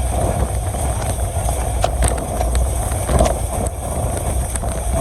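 Diesel-hauled passenger train running along the track: a steady rumble with rushing wind noise and a few sharp clicks from the wheels and rails.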